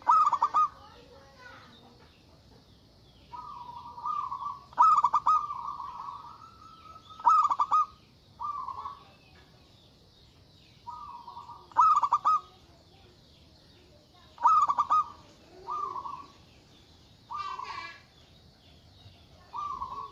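Zebra dove (perkutut) cooing loudly in repeated phrases. Each phrase opens with a sharp, loud note and runs into a short series of lower coos, and a new phrase comes every two or three seconds.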